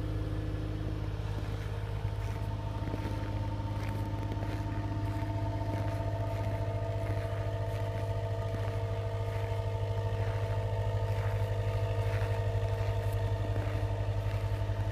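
A 1992 Honda Civic LX's four-cylinder engine idling steadily at a raised cold-start idle, the exhaust hum growing slightly louder in the second half.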